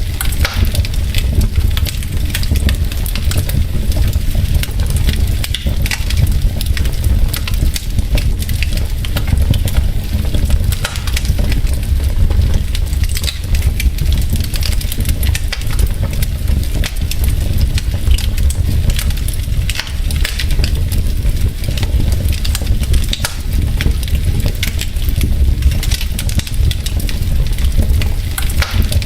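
Wood logs burning in a fireplace: a steady low rumble of the fire with frequent sharp crackles and pops throughout.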